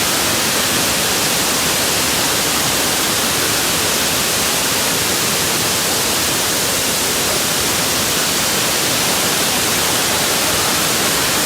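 Loud, steady rushing of a waterfall's falling water, an even hiss with no breaks.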